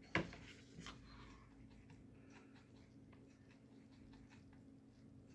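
Faint scratching and tapping of a paintbrush mixing gouache paint, with one sharper knock just after the start and soft scattered ticks after it.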